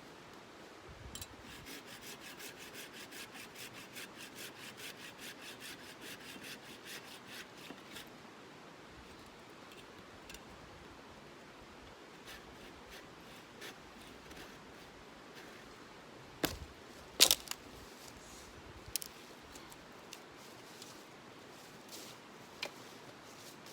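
Rhythmic scraping strokes, about three to four a second, for several seconds. Then a lull with a few sharp clicks or snaps, the loudest a pair about two-thirds of the way through.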